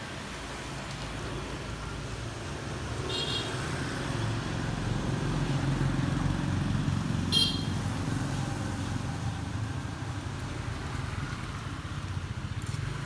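Road traffic passing a roadside repair stall: an engine rumble swells in the middle and fades again. Two short, high-pitched horn beeps sound about four seconds apart.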